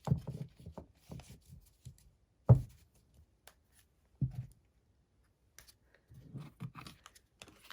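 Tarot cards being handled on a table, with light clicks and rustles of the cards and two dull knocks, the first about two and a half seconds in and the second, softer one about a second and a half later.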